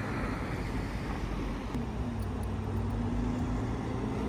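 Steady rumble of a motor vehicle or passing traffic, with a steady low hum joining about two seconds in.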